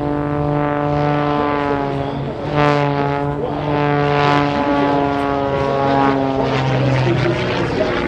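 Pitts S-2 aerobatic biplane's 260-horsepower Lycoming piston engine and propeller running steadily in flight, a strong even drone that shifts slightly in pitch a few times.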